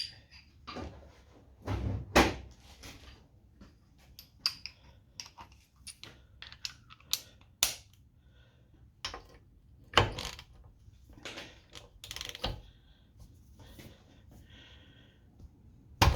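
Irregular metallic clicks, clinks and knocks of hand tools against a small engine as a spark plug is worked loose and removed, with two heavier knocks about 2 and 10 seconds in.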